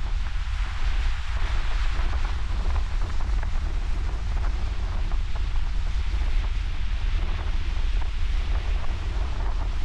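Ocean surf washing steadily on the shore, with wind buffeting the microphone in a constant low rumble.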